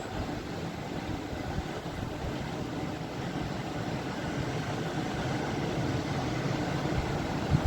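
Ocean waves: a steady low wash of surf that swells slowly louder.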